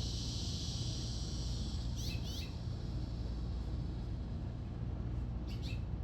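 A small bird chirping twice, each time a quick pair of short high notes, about two seconds in and again near the end, over a steady low outdoor rumble.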